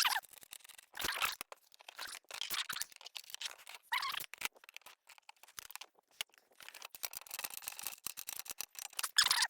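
Hand tools and metal canopy hardware being worked during bolt-together assembly: irregular scraping, rattling and clicking in short bursts.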